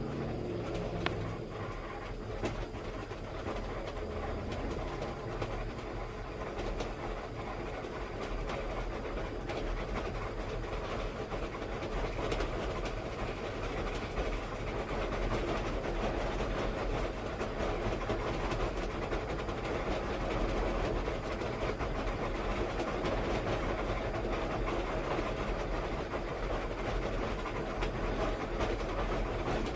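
Steady vehicle rumble with a fast, continuous clatter.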